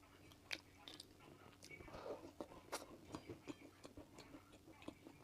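Close-miked chewing and mouth sounds: soft, irregular wet clicks and smacks, a few a second.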